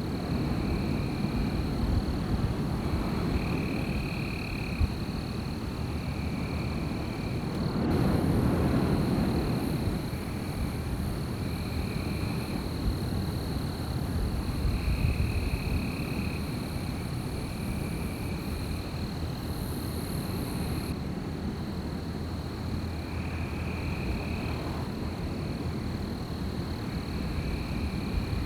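Wind blowing in gusts, with a stronger gust about eight seconds in. Under it run a steady high whine and short high calls that repeat every second or two, typical of a night chorus of insects or frogs.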